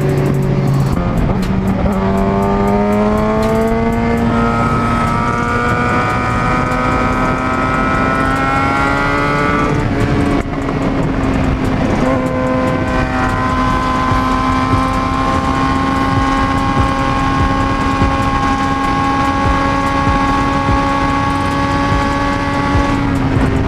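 Motorcycle engine under way, its pitch climbing steadily for several seconds as it accelerates, dipping briefly about ten seconds in at a gear change, then holding steady at cruising speed, with rushing wind noise throughout.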